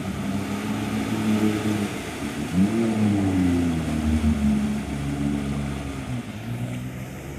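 Off-road 4x4's engine running and revving, its pitch rising and falling, with a sharp climb and drop in revs about two and a half seconds in.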